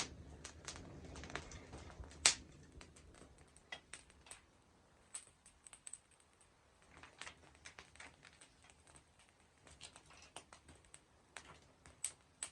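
Wood fire crackling: scattered, irregular snaps and pops, with one sharp pop about two seconds in and another near the end.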